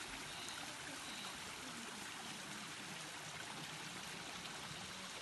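Steady rushing of a flowing mountain stream, with faint voices in the distance.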